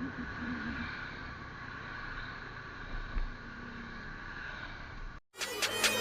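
Steady, muffled vehicle running noise with a low hum. About five seconds in it cuts off abruptly, and music with a sharp, even beat starts.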